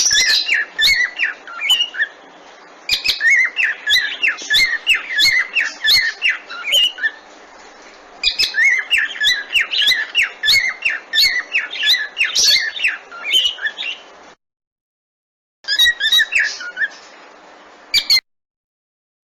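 Cockatiels chirping and whistling in quick runs of short rising and falling calls, in several bursts with short pauses. The sound cuts off to dead silence about 14 seconds in, returns briefly, and cuts off again near the end.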